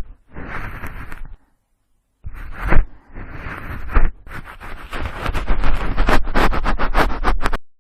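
Cotton swab scraping and twirling in the ear of a binaural microphone, close and loud: a few separate rubbing strokes with short pauses, then from about halfway a fast run of scratchy strokes, about four a second, that stops abruptly near the end.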